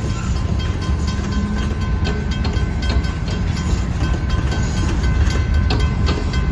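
Freight train of grain hopper cars rolling past a grade crossing: a steady low rumble with wheels clicking repeatedly over the rail joints. A faint steady high tone runs above it.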